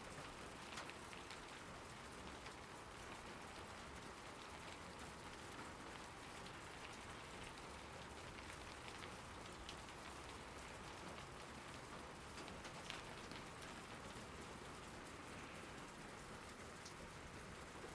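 Steady, fairly faint rain falling, with occasional individual drops ticking a little louder above the hiss.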